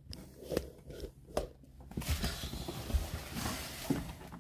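Plastic protective film being handled and pulled off the fridge, with a couple of light clicks at first and then, about two seconds in, a rasping, crackling noise for about two seconds with a few low knocks.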